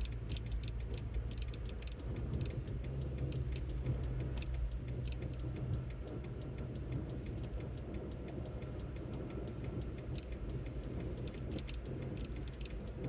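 Steady low engine and road hum heard inside a moving vehicle's cabin, with a fast, even ticking rattle running over it.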